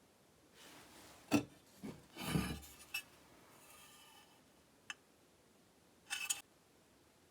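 Small parts being handled and scrubbed by hand: a knock, a short scrape, a few light clicks, and one more brief scrape near the end.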